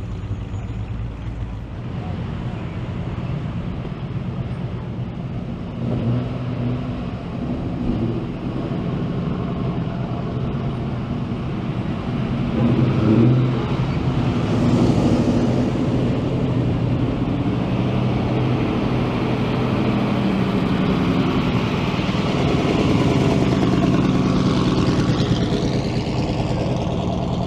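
Car engines running, rising and falling in pitch as they rev a few times, loudest about thirteen seconds in.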